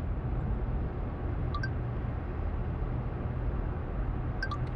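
Steady road and engine rumble heard inside a moving car's cabin. A faint, short two-note chirp sounds twice.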